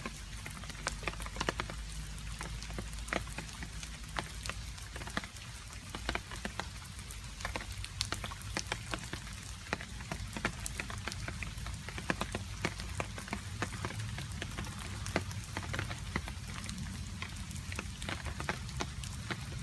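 Rain falling steadily, with many separate water drops landing in an irregular patter over a constant hiss and a low rumble.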